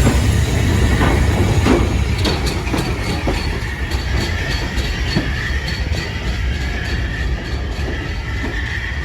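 Heritage railway train passing, with a heavy rumble and wheels clicking over the rail joints. A thin steady wheel squeal joins from about four seconds in, and the sound eases off slightly towards the end.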